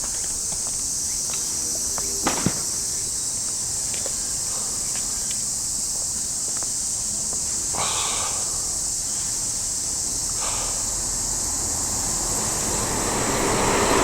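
Cicadas buzzing in a steady, high, continuous chorus, with light footsteps underneath. Near the end a vehicle approaches and grows louder.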